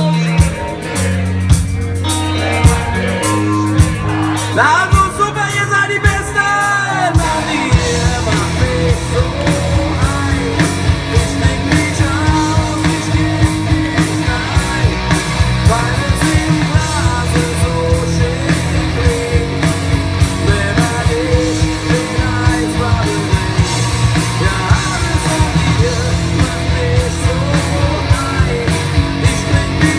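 Live band playing a rock song with singing; about seven seconds in, the full band comes in with a steady drum beat.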